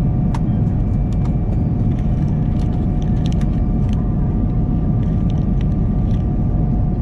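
Steady, loud cabin drone of a jet airliner in flight: a deep, even rumble with a few fixed tones running over it and scattered small clicks.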